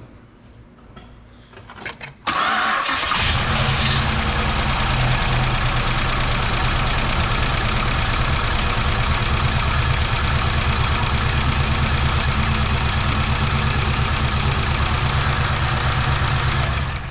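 2008 Impala SS's 5.3L V8, with newly replaced AFM lifters, cranking and catching about two seconds in, then running steadily until it stops near the end.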